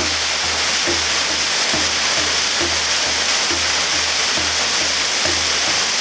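Waterfall pouring steadily, a full rushing noise, with a low rhythmic beat about twice a second over it.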